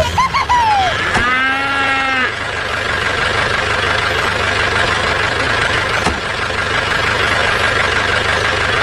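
A steady mechanical running sound with a constant whine, like a small motor or engine running. About a second in, a short pitched call of about a second sounds over it.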